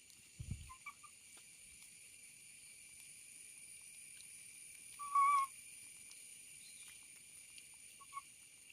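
Short whistle-like animal calls: a couple of brief chirps about a second in, one louder call of about half a second around the middle, and two brief chirps near the end, over a steady high hiss. A low thump comes about half a second in.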